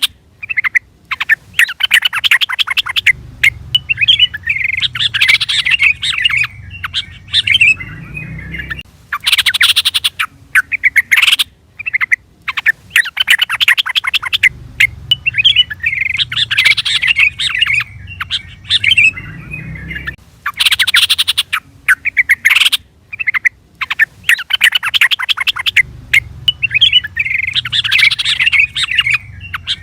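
Yellow-vented bulbul (trucukan) calling: bursts of quick, bubbling chirps and chatter, loud and fast, broken by short pauses, in a sequence that repeats about every eleven seconds.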